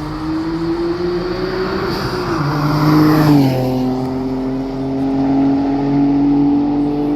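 Twin-turbocharged 3.8-litre V6 of a Hyundai Genesis Coupe pulling under power, its note climbing slowly. About three and a half seconds in the revs drop sharply, with a rush of hiss just before. The engine then pulls on at a steady, slowly rising pitch.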